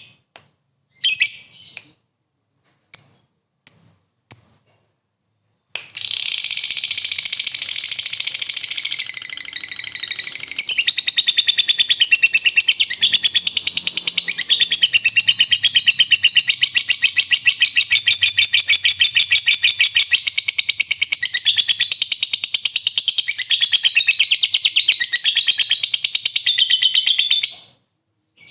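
Lovebird giving a few short chirps, then after a brief pause a long, unbroken, rapid chattering trill of about twenty seconds that stops abruptly near the end: the 'ngekek panjang' long chatter prized in fighter lovebirds.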